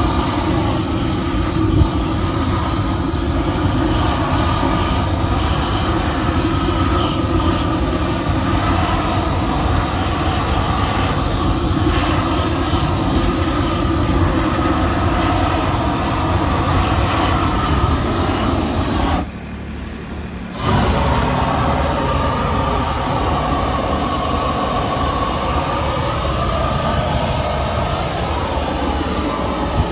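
A machine or engine running steadily and loudly, cutting out briefly about two-thirds of the way through, then running on as before.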